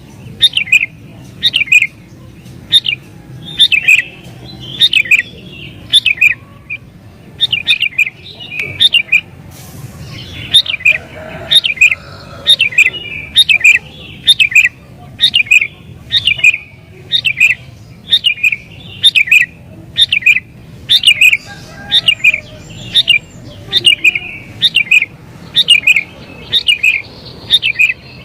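Sooty-headed bulbul (kutilang) singing busily: short, bright phrases of two or three notes, repeated about once a second.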